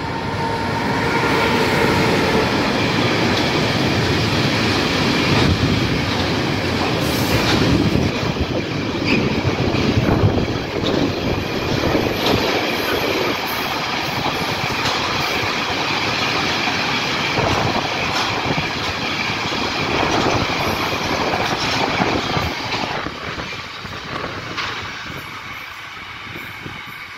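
A freight train hauled by an E193 Siemens Vectron electric locomotive, with a long string of flat wagons loaded with steel plates, passing close by, its wagon wheels rumbling and clattering over the track. The sound fades away near the end as the last wagons pass.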